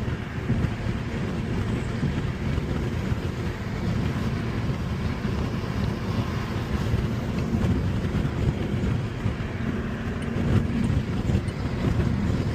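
BMW 330i driving: steady engine and road noise with wind rushing past.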